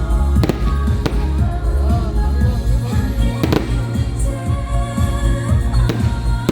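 Fireworks going off as several sharp bangs, the strongest about three and a half seconds in, over loud music with a heavy bass beat.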